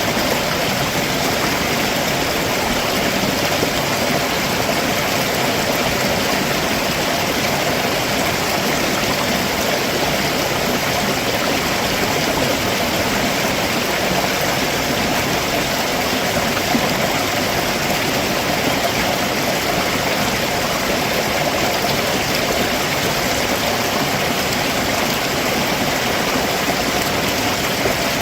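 Rocky stream below a waterfall, water rushing and splashing over rocks with a steady, unbroken sound.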